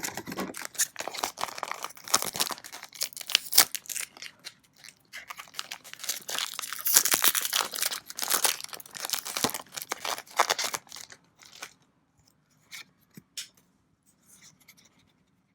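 A foil trading-card booster pack being torn open and crinkled. After about eleven seconds the crackling thins out to a few scattered light taps.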